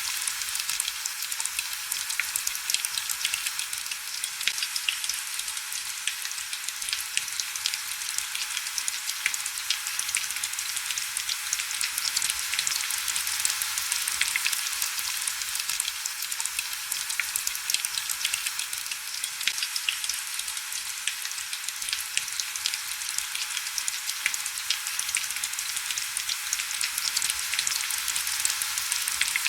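Heavy rain falling steadily: a dense, even hiss dotted with many small sharp drop taps, with almost no low rumble.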